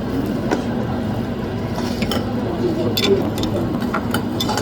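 Steady background rumble with scattered light clicks and faint voices.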